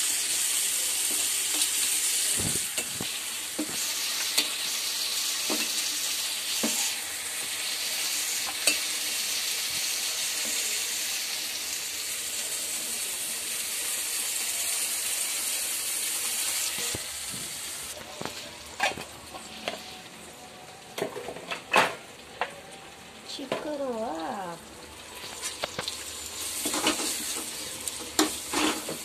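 Onion-tomato masala sizzling in oil in a steel pan, a steady hiss. About eighteen seconds in the sizzle quietens, and a steel ladle scrapes and clinks against the pan as the masala is stirred.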